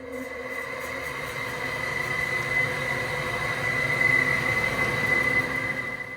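Ventilation fan motor running with a steady high-pitched whine over a rumbling whir: the abnormal noise of a worn motor bearing.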